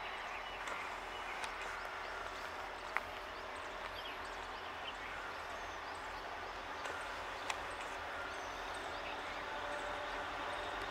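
Distant dual-fuel diesel-CNG DEMU train approaching: a steady low engine drone that grows slowly louder toward the end, with faint bird chirps and two sharp clicks.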